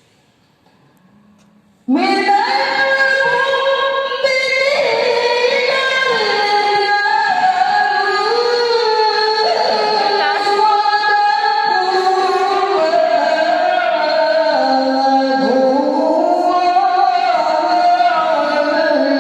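Qur'an recitation in the melodic tilawah style: one voice comes in about two seconds in and chants loudly in long held notes that slide and turn between pitches.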